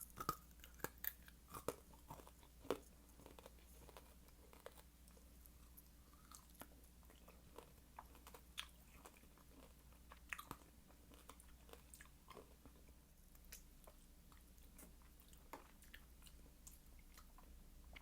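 Close-miked chewing of fresh fruit: scattered wet crunches and mouth clicks, with the loudest bites in the first few seconds and quieter chewing after that.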